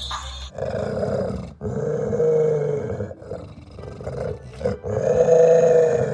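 An animal's long, drawn-out growling vocal calls: three of them with short pauses between, the last the loudest.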